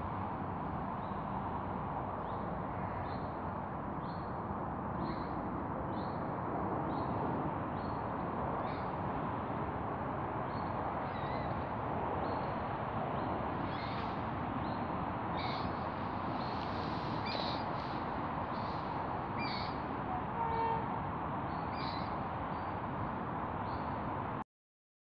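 Birds giving short, high chirping calls about once a second over a steady background hiss. All sound cuts off abruptly near the end.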